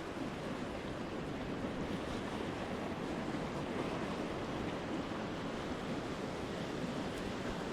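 Ocean surf breaking and washing on a beach: a steady rushing noise.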